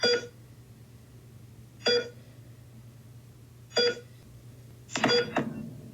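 Short, bright electronic beeps or chimes, one about every two seconds, with two close together near the end, over a steady low hum.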